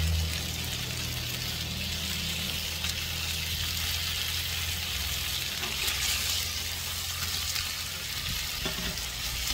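Barbecue-sauced pork spare ribs sizzling steadily as they sear in an oiled pan, with a low steady hum underneath.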